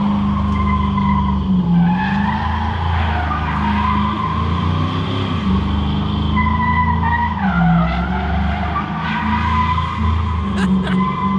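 LS-swapped 1996 GMC 1500 pickup's V8 held at high revs while its rear tires spin and squeal continuously. The engine note and the squeal both waver up and down in pitch.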